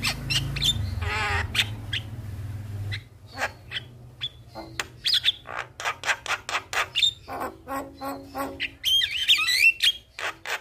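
Javan myna calling: a rapid string of harsh squawks and sharp clicks with a few short whistled notes, then a tangle of gliding whistles near the end. A low hum sits under the first three seconds.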